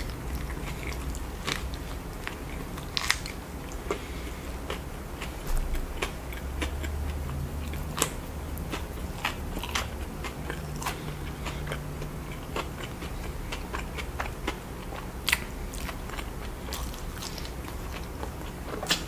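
A person biting into a saucy sandwich and chewing it close to the microphone, with scattered wet mouth clicks.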